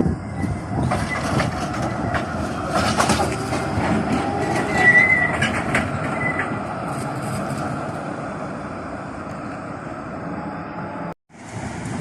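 A rail vehicle running on the track, with wheels clicking over the rails and a brief high wheel squeal about five seconds in. The sound breaks off suddenly near the end.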